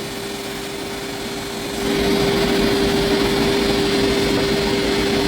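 Steady machine hum from welding-shop equipment. About two seconds in, a louder, even rushing noise starts and keeps on.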